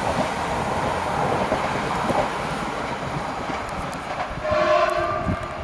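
An electric multiple unit passenger train running away down the track, its rushing rail noise fading. About four and a half seconds in, a train horn sounds for about a second, two notes at once.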